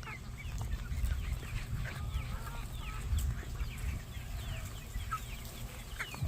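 A flock of chickens clucking and chirping, many short, high calls overlapping, over a low rumble.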